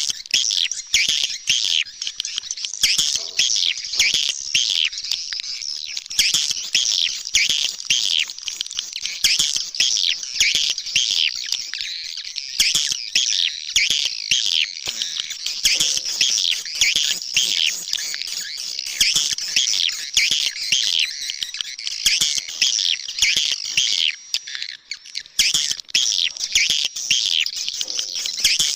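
Swiftlet calling-sound recording: a dense, continuous chorus of high, rapid chirps and twitters, thinning briefly about twenty-four seconds in. It is an edited lure call made to draw swiftlets to a nest house.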